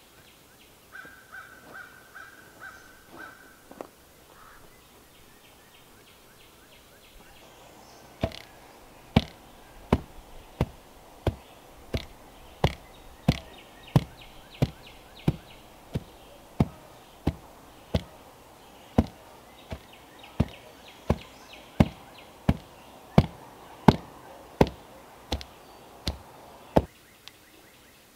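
A steady run of hard blows of a tool on wood, about one and a half strikes a second, starting about eight seconds in and stopping shortly before the end.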